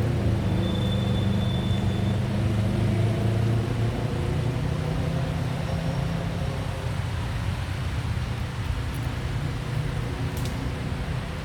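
Steady low engine-like hum, as from a motor vehicle running nearby, with a brief faint high tone near the start and a single click near the end.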